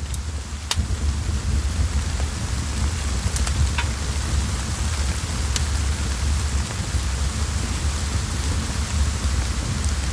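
Steady rain with a low rumble underneath, and a few sharp crackles from a wood fire scattered through it.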